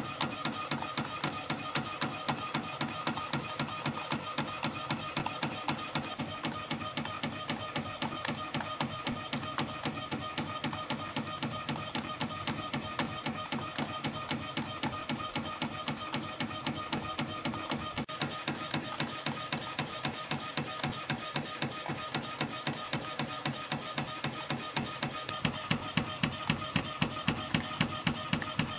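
CNC compression spring coiling machine (YHM CF-310) running in production on 0.5 mm wire, a fast even mechanical clatter with about two sharp clacks a second as each spring is coiled and cut off. It starts suddenly, and the clacks grow louder near the end.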